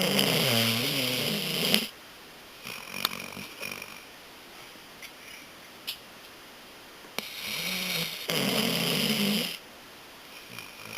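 German Shorthaired Pointer snoring in its sleep: a long, loud, wavering snore at the start, a softer one a couple of seconds later, and another long, loud snore near the end.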